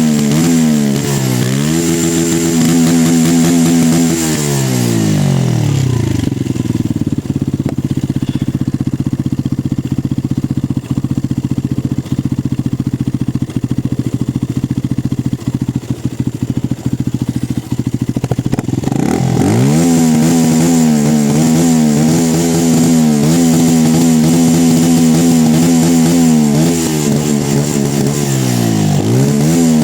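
Benelli 125S motorcycle engine with its stock exhaust, revved hard and held high, dropping back to a steady idle for about fourteen seconds, then revved up and held high again.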